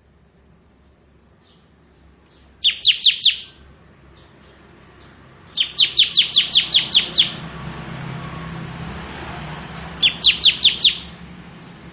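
Bar-winged prinia (ciblek) singing its rapid 'ngebren' trill: three bursts of quick, sharp repeated notes, the middle burst about twice as long as the other two. A low steady hum rises behind the song after the middle burst.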